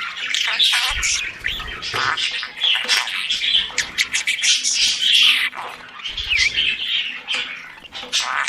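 Budgerigars (parakeets) chirping and warbling: a busy, continuous chatter of quick, overlapping chirps.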